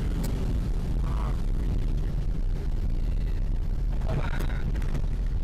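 Steady low rumble of airflow and wind in the cockpit of an SP-30 ultralight gliding on its landing approach with the engine shut off. Faint voice-like sounds come twice.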